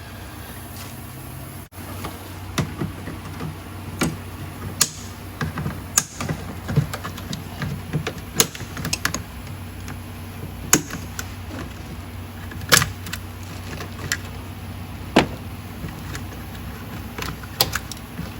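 Irregular light clicks and clinks of hand tools and engine parts being handled during a diesel engine teardown, a few sharper knocks standing out, over a steady low hum.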